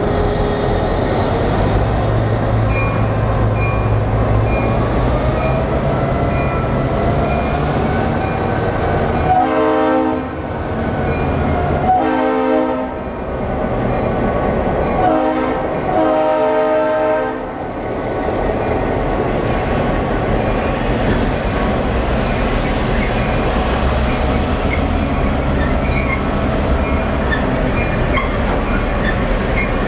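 Diesel locomotive passing close and running loud, sounding its air horn in the grade-crossing pattern of long, long, short, long, starting about nine seconds in. The train's running noise carries on steadily before and after the horn.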